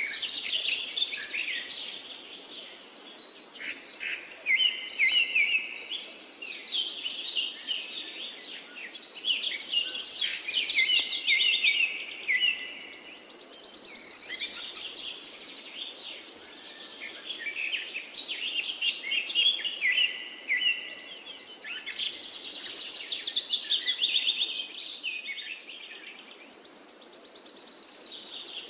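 Songbirds singing: overlapping songs of quick trills and chirping phrases, with high buzzy trills coming back every few seconds, over a faint steady hiss.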